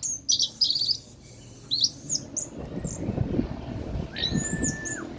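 Orange-headed thrush singing a varied song of quick, high whistled phrases, with a longer sliding whistle near the end. Low dull thuds sound under the song in the second half.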